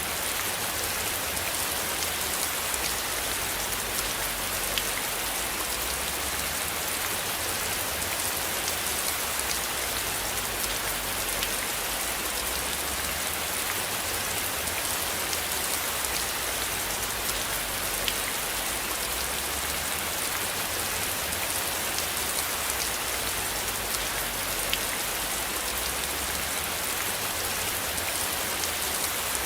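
Steady rain falling, an even hiss dotted with scattered sharp drop ticks.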